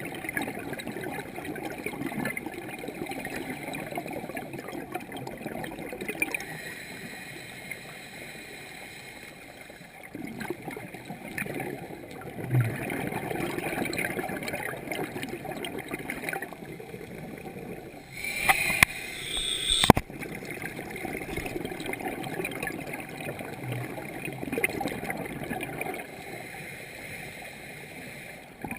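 Water gurgling and bubbling, rising and falling in waves, with a brief louder burst of hissing noise a little past halfway.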